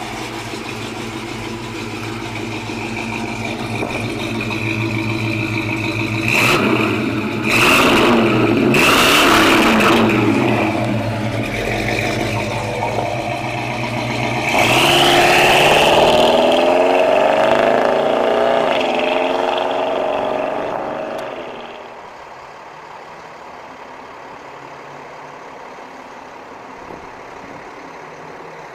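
Small-block V8 (ZZ4 350 crate engine) in a 1957 Chevrolet Bel Air running at idle, then revving in several rising and falling throttle surges as the car drives off. About three-quarters of the way through the sound drops to a much quieter steady hum.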